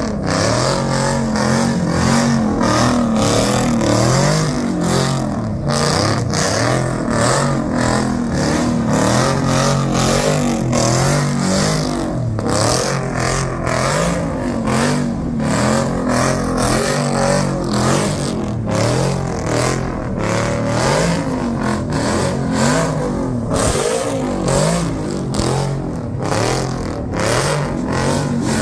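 Car engine revving hard, over and over, its pitch rising and falling every second or so, with a rough, crackling noise over it throughout.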